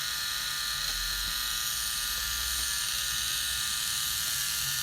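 Small electric motor driving a K'nex model V6 engine's plastic gears, pistons and crankshaft, whirring steadily.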